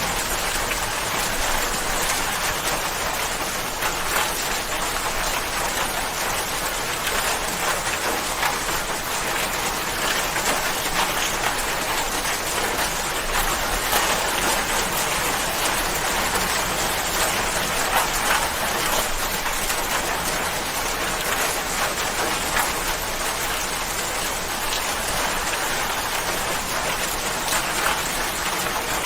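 Steady rain falling, an even hiss of many drops with frequent small individual drop ticks.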